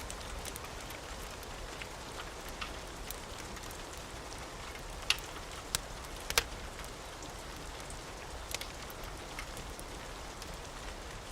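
Steady rain with the snapping crackle of a wood fire in a fireplace, a few louder pops around the middle.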